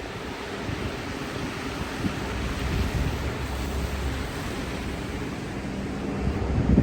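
Wind buffeting the microphone as a steady rushing noise over a low rumble, with a louder gust near the end.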